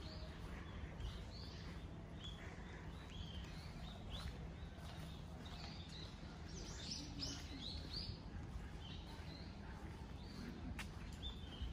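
Small birds chirping in the trees: many short, quick calls that come thickest about halfway through, over a low, steady rumble.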